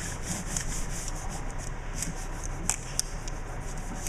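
Short, irregular rubbing strokes against a hard surface, a few a second.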